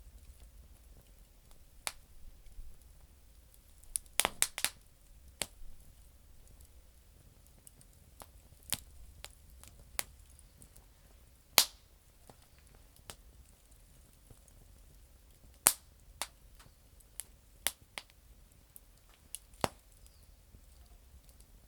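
Campfire of damp firewood crackling, with sharp pops at irregular intervals: a quick cluster of pops about four seconds in, and louder single pops around the middle and later.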